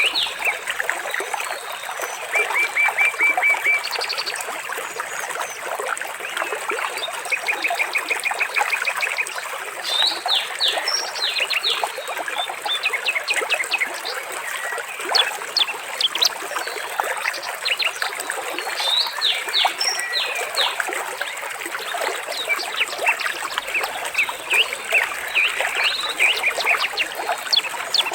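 Water trickling steadily, with songbirds chirping over it. Twice a bird gives a rapid trill of even, repeated notes.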